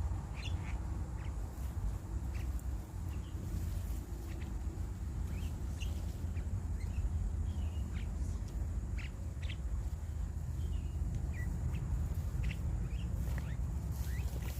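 Birds giving short, scattered chirps and calls, a few every second, over a steady low rumble.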